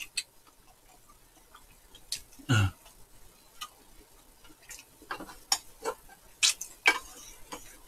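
Close-up eating sounds: scattered sharp crunches and clicks of crisp scorched rice (nurungji) being chewed, with one louder dull thump about two and a half seconds in and a cluster of crunches after five seconds.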